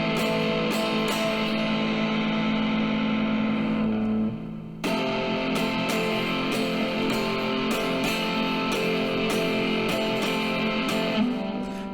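Distorted electric guitar playing an instrumental passage of a rock song over a steady beat. The music briefly drops out about four seconds in.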